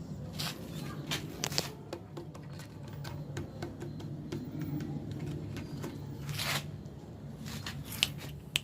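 Scattered light clicks, taps and rustling from something being handled, with a longer rustle about two-thirds of the way through and a steady low hum underneath.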